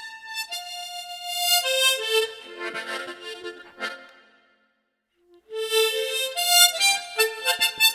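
Tremolo harmonica playing a solo melody, one note after another with chords, stopping for about a second halfway through before the next phrase begins.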